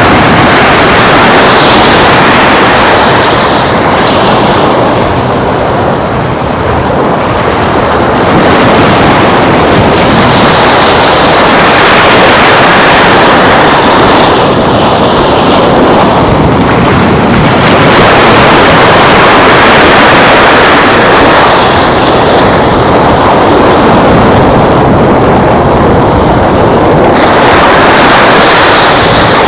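Ocean surf washing ashore in surges every several seconds, under heavy wind noise on the microphone.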